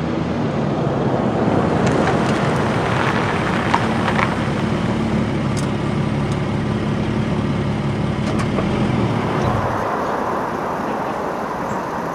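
A white Kia Sorento SUV's engine running close by as the car moves slowly along the street, a steady low hum over traffic noise. The hum dies away about nine and a half seconds in.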